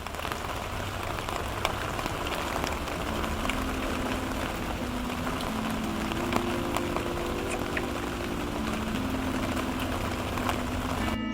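Heavy rain falling steadily, a dense hiss with scattered sharp drop hits, and soft background music notes under it.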